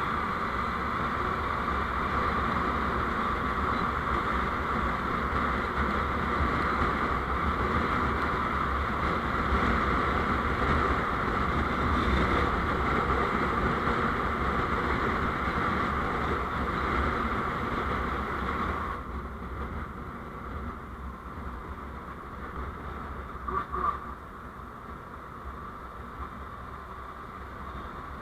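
Steady running and road noise from a vehicle on the move. It drops off abruptly about two-thirds of the way through, with one brief sharp sound a few seconds later.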